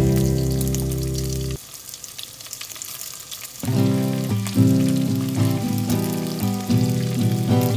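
Chicken breast strips sizzling and crackling in hot oil in a wok. Background music plays over it, dropping out for about two seconds a little over a second in; the sizzle goes on alone in that gap.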